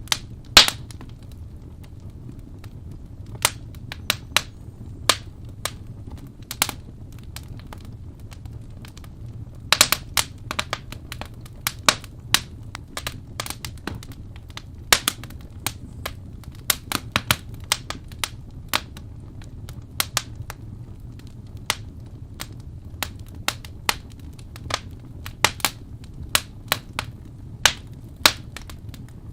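Fireplace wood fire crackling: irregular sharp snaps and pops, some loud, over a low steady rumble of the burning fire.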